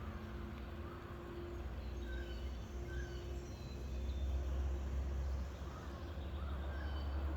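Low, steady rumble of vehicle engines in passing traffic, growing louder about four seconds in, with small birds chirping over it.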